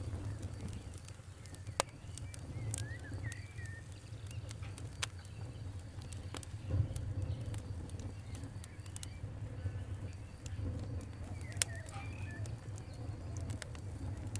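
Fire crackling, with scattered sharp pops over a steady low rumble.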